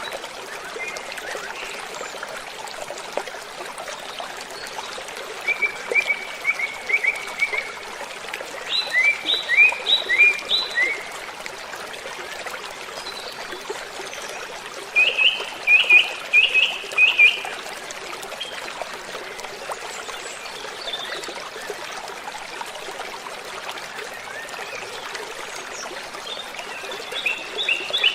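Waterfall rushing steadily, with a songbird cutting in four times with quick bursts of short repeated chirping notes.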